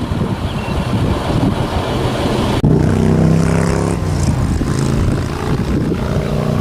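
Strong wind buffeting the microphone. About two and a half seconds in, a steady engine drone with a low pitched hum starts abruptly and holds, fading somewhat after a second or so.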